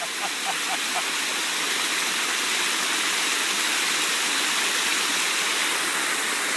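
Water pouring over a small waterfall, a steady, even rush of noise.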